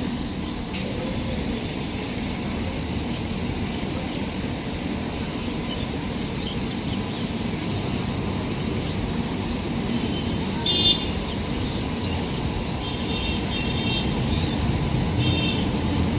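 Steady low rumble of a running train, with birds chirping briefly several times in the second half, loudest about eleven seconds in.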